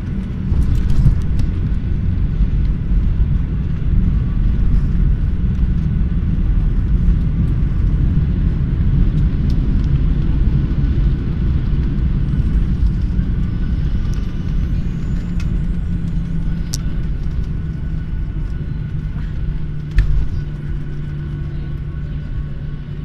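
Airliner cabin noise during landing: a loud, steady, low rumble with faint steady tones. A sharp knock comes near the end, after which the rumble eases a little.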